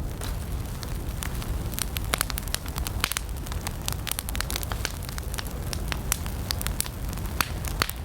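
Wood campfire burning, with frequent sharp, irregular crackles and pops over a steady low rumble of flames.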